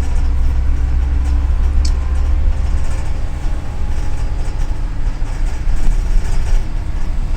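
Double-decker city bus under way, heard from inside the cabin: a steady deep engine and road rumble with faint whining tones. The deepest rumble eases about two and a half seconds in.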